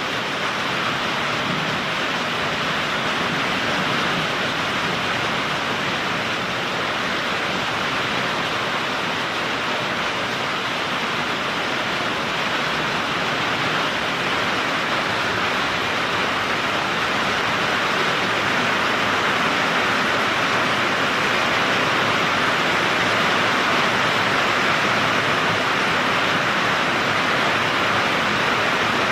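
Heavy rain pouring down steadily during a thunderstorm, getting a little louder in the second half.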